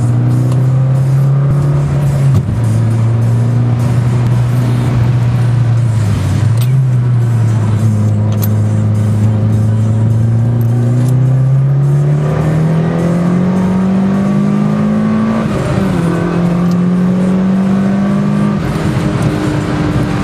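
Mitsubishi Lancer Evolution IX's turbocharged inline-four heard from inside the cabin, holding fairly steady revs with a brief dip about two seconds in, then climbing from about twelve seconds in, with the revs dropping sharply at gear changes around sixteen seconds and again near the end.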